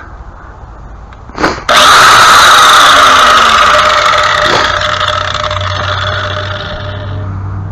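A power tool switched on suddenly about a second and a half in, then running with a steady high whine that slowly grows quieter. A short knock comes just before it starts.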